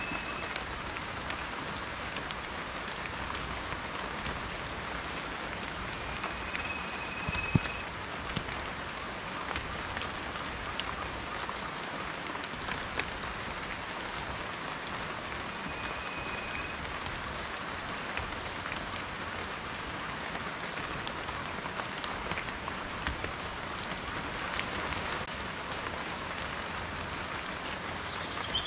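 Steady rain with individual raindrops tapping, and one sharper drop hit about seven and a half seconds in. A faint, short, high steady whistle comes twice.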